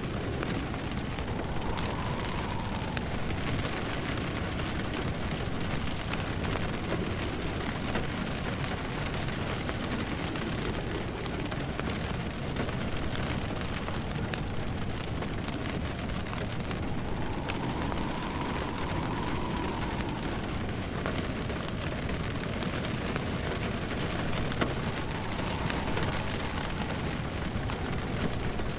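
Steady rain mixed with a crackling wood fire, under a faint wind howl that rises and falls a few times.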